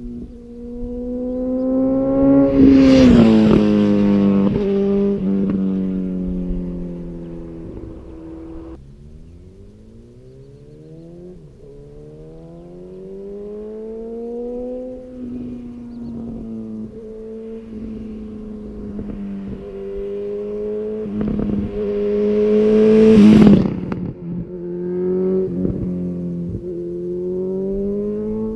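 Honda CB1000R inline-four engine through a Yoshimura R-77 exhaust, revs climbing and dropping repeatedly. It is loudest twice, a few seconds in and again about two-thirds of the way through, each time with a sharp rasp before the pitch falls away.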